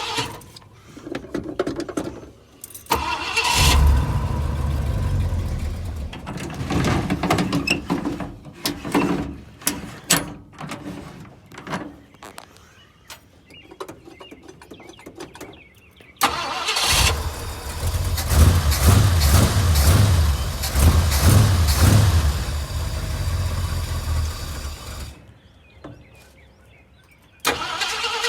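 1974 Ford F100 pickup's engine being started: it catches about three seconds in, runs unevenly and fades out, then starts again about halfway through and runs with an uneven, surging beat before cutting off suddenly. The engine struggling to stay running is put down to a bad carburetor.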